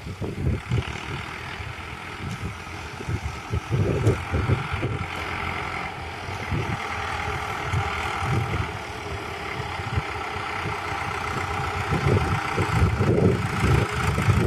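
Mahindra Arjun tractor engine running steadily, with irregular low buffeting from wind on the microphone.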